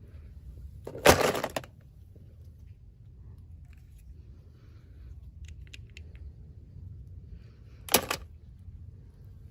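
Plastic packaging crackling twice as a toy is unboxed: a half-second burst about a second in and a shorter, sharper crack near the end.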